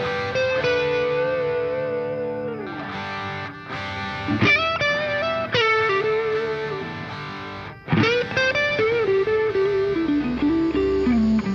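Music: a distorted electric guitar playing a slow melody of long held notes with bends and slides.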